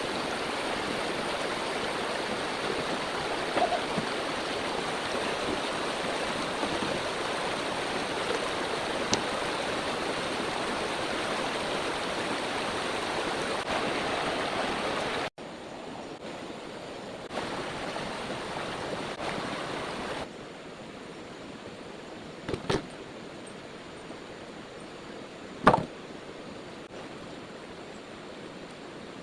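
Heavy rain pouring down in a steady dense hiss. About halfway through it cuts to a quieter patter, which drops lower again a few seconds later. A few sharp knocks come near the end.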